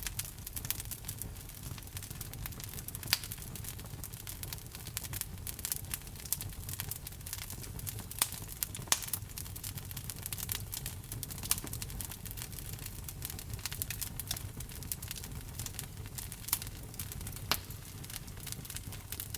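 Wood fire burning in a fireplace, crackling constantly with irregular sharp pops and snaps over a low steady rumble of the flames.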